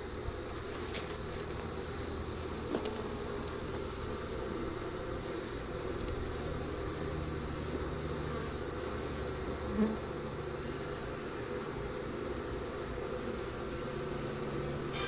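Honey bees buzzing steadily around open hive boxes, with a steady high insect trill above the hum and a couple of faint knocks.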